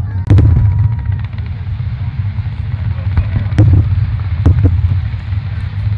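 Fireworks shells bursting, sharp bangs about a third of a second in and again around three and a half and four and a half seconds in, over a steady low rumble.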